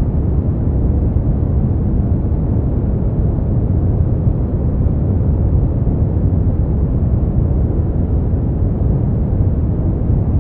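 Steady, unchanging noise played as a sleep aid, deep and rumbling rather than bright, with no breaks or changes.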